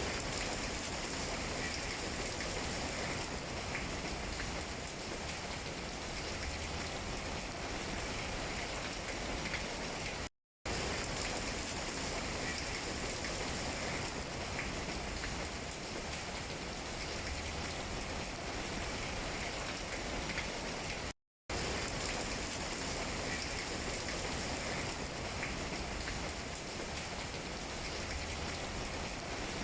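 Steady rain falling on tree leaves, an even patter with faint scattered drip taps. The sound cuts out completely for a split second twice, about ten and twenty-one seconds in.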